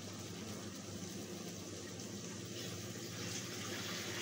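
Marinated mutton sizzling steadily in hot oil in a kadai as it cooks down, with a low steady hum underneath.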